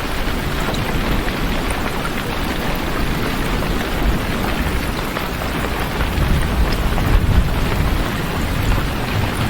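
Steady rain, a dense even hiss, with a low rumble swelling about six to eight seconds in.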